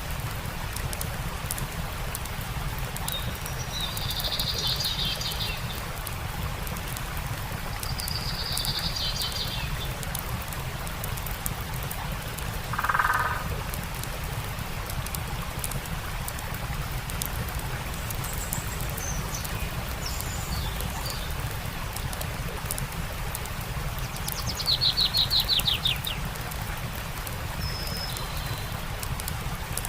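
Songbirds calling over a steady rush of running water, with faint scattered crackles. Short trilled calls come twice in the first third, a lower call about halfway through, and a rapid descending trill, the loudest call, near the end.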